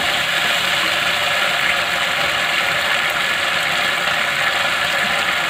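Onions and capsicum sizzling steadily in a hot nonstick kadai in a sauce of ketchup, soy sauce and vinegar.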